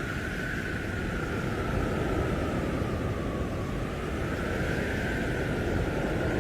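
Blizzard wind blowing hard and steadily, a howling whistle slowly dipping and rising in pitch over a low rumble.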